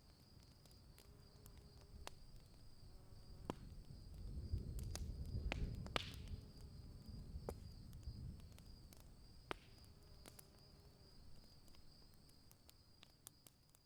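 Night nature ambience: crickets chirring in a steady, high, slightly pulsing tone, with scattered sharp clicks and crackles and a low rumble that swells in the middle. It all fades out near the end.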